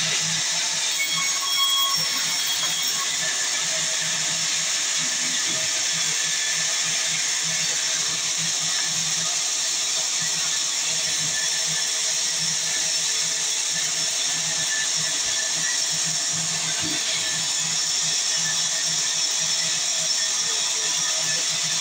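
Sawmill saw cutting through mahogany timber, a steady high-pitched whine and hiss with no break.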